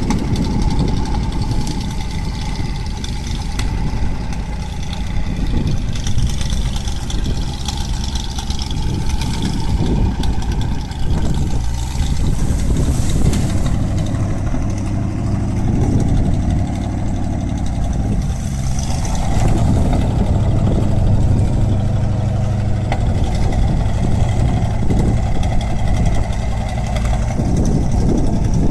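GAZ-66 off-road truck's engine running at low revs, its level swelling and easing, and a little louder about two-thirds of the way through.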